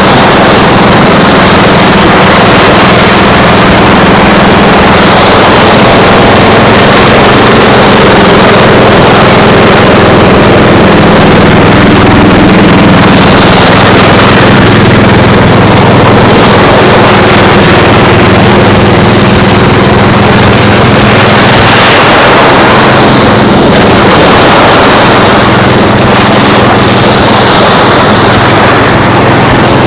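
An engine running steadily with an even hum, over a constant loud rush of noise that swells now and then.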